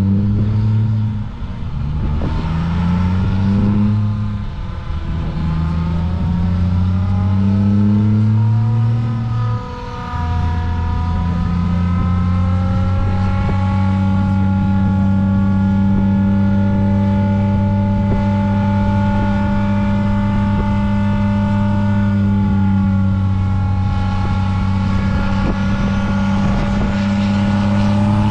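Vehicle engine accelerating through the gears: its pitch climbs and drops back at three upshifts in the first ten seconds, then holds steady as it cruises.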